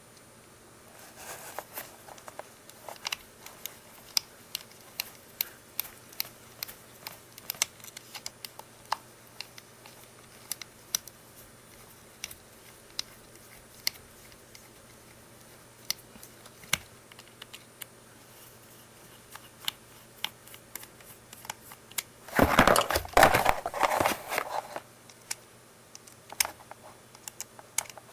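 Hands working on the plastic parts of a water flosser: scattered light clicks and taps of plastic. About 22 seconds in there is a louder rustling, crinkling stretch lasting two or three seconds.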